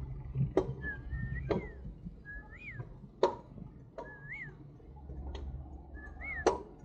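A bird's whistled call, a level note that swoops up and back down at the end, given four times about every one and a half to two seconds. Loud, sharp clicks fall in between the calls.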